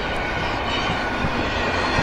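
A train rolling past with a steady rumble and rush of noise.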